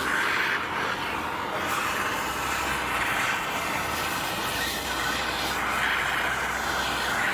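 Hand-held gas torch flame hissing steadily while heating a copper pipe joint to melt lead-free solder into a bubble in the joint.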